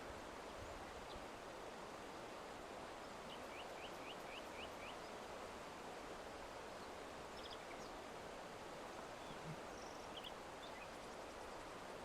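Faint outdoor ambience: a steady hiss with a few small bird chirps over it, including a quick run of about six high notes a few seconds in and scattered single chirps later.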